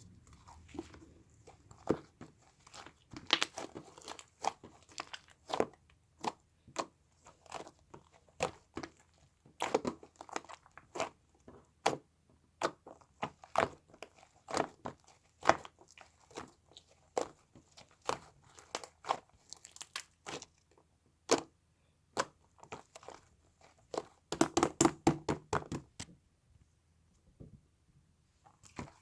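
Crinkly material being handled: short, irregular crackles and rustles, with a quick flurry of them near the end and then a brief lull.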